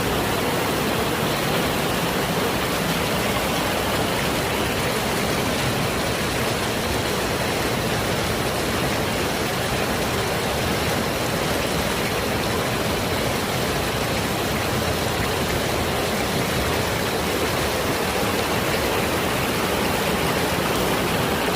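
Waterfall water rushing in a steady, unbroken rush.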